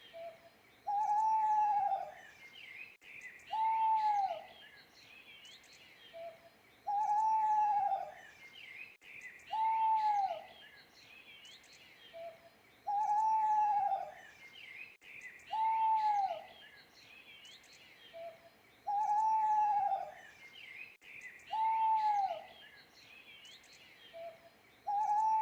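An owl hooting in a repeating phrase, a short soft note followed by two longer hoots, about every six seconds. Small birds chirp faintly and steadily behind it.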